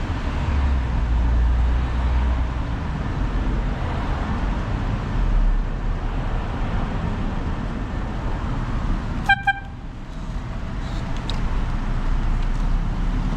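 Steady wind and road rumble while riding an e-bike in traffic, with one short, high-pitched toot from a bicycle air horn about nine seconds in.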